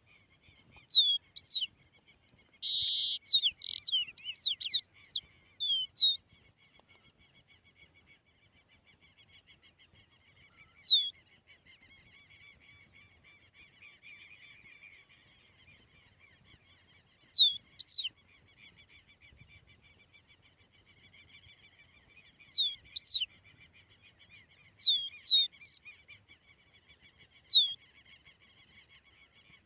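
A songbird calling in loud, sharp whistled notes that sweep up and down, given in scattered clusters with gaps of several seconds between them. A faint, steady high twittering runs underneath.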